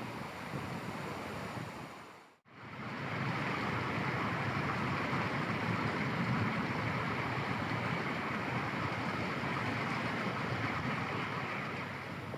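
Steady outdoor rushing noise with no distinct events, dropping out briefly about two and a half seconds in and returning a little louder.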